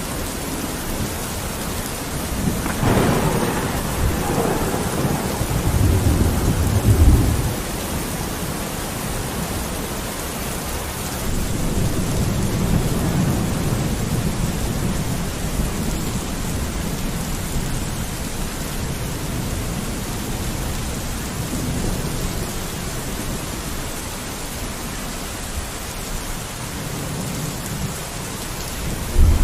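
Steady rain falling on a window, with low rolling thunder rumbling twice: once building from about three seconds in, and again a few seconds later.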